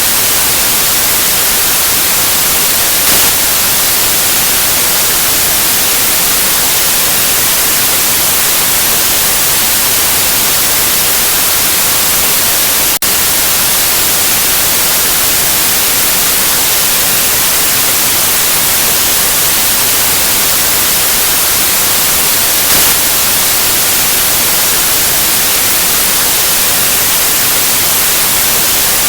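Loud, steady white noise: an even hiss, strongest in the highs, with a split-second dropout a little before halfway.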